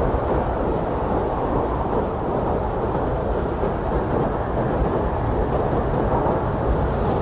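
Blizzard wind blowing hard and steadily, a dense rushing noise with a deep low rumble beneath it and no gusts or breaks.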